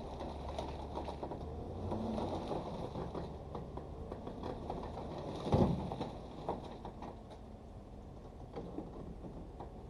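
Chevrolet Silverado 1500 pickup running low and steady in four-wheel drive as it drags a buried corrugated metal culvert pipe out on tow straps, with scattered cracks and clicks and one loud knock about five and a half seconds in.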